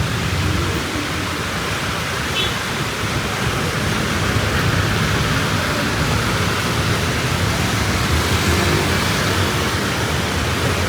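Heavy rain falling in strong wind: a steady, even hiss with a low rumble underneath.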